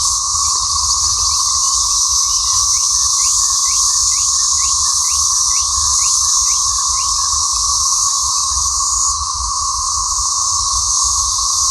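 Loud, unbroken chorus of cicadas, a dense high buzzing drone. From about two to eight seconds in, a rapid series of short chirps, about three a second, runs over it.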